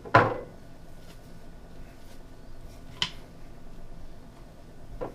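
Ingredients and containers being handled at a plastic personal-blender cup: a loud knock just after the start, then a sharp click about three seconds in and a fainter one near the end.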